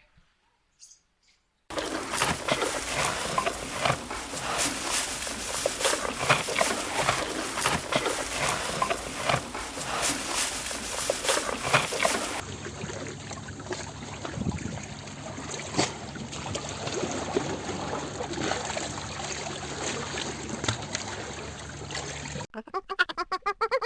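Water splashing and trickling in two separate recordings, each about ten seconds long, cut one after the other. The first is dense and crackly with many sharp splashes; the second is quieter, over a steady low hum.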